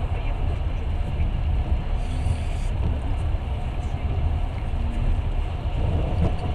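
Passenger train running at speed, heard from inside the carriage: a steady low rumble of the wheels and car body.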